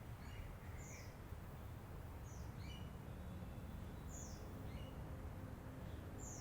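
Lovebird giving short, high chirps at irregular intervals, roughly one a second, over a steady low background rumble.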